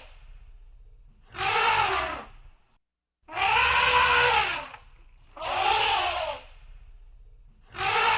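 Elephant trumpeting: a series of loud, brassy calls about a second long, each rising and then falling in pitch, repeated every one and a half to two seconds, with a fourth call starting near the end.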